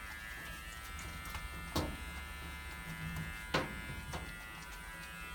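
Steady buzzing hum of a small motor, made of several tones at once, with two short sharp sounds: one about two seconds in and one near the middle.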